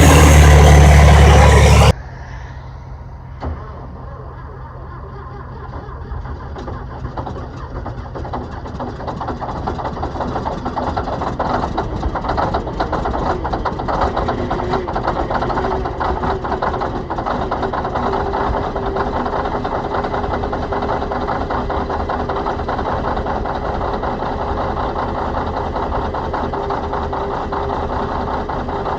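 Large diesel engine cold-starting: it catches and builds up over several seconds, then runs steadily at idle with a fast, even firing rhythm. Before that, a louder engine sound cuts off abruptly about two seconds in.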